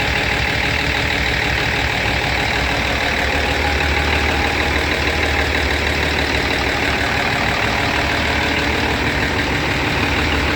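Steady, loud din of running engine-room machinery aboard a ship: engines running at a constant speed with a deep hum and a heavy mechanical clatter, unchanging throughout.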